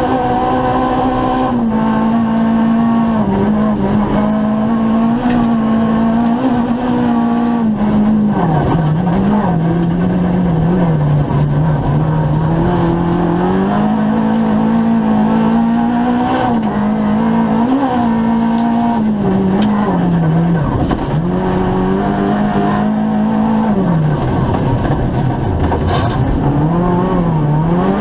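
Opel Corsa rally car's engine heard from inside the cabin, loud, its note rising and falling repeatedly as it is driven through the gears on the stage.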